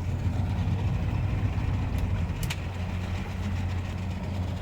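Marine engine idling with a steady low hum, with two faint clicks about two seconds in.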